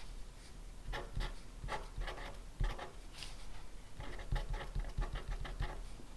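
Pen writing on paper: short scratchy strokes in irregular quick clusters, with soft low knocks of the pen and hand against the desk.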